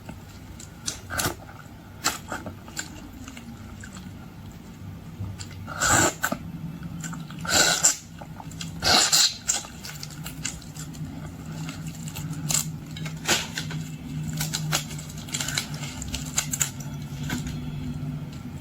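Shrimp being peeled and eaten up close: scattered clicks and crackles of shell, with three louder crunchy bursts around the middle. A low steady hum comes in about halfway.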